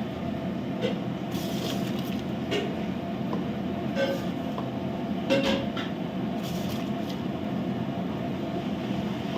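Steady rumbling of a large pot of coconut milk boiling hard on the stove for bulk cooking, with a few short metallic clinks of utensils against the pot.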